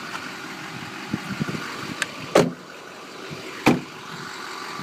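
Steady running noise of the GMC Sierra 3500's 6.6-litre Duramax turbo diesel at idle, broken by two loud thumps about a second and a half apart, with a few small clicks just before the first.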